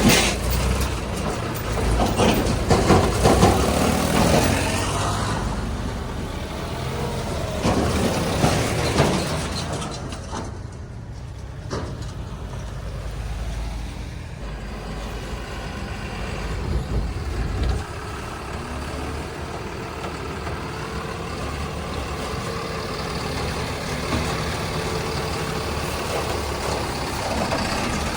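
Heavy diesel engines of working vehicles, such as a backhoe loader and tipper trucks. They rev up and down for the first several seconds, then settle into a steadier, quieter running.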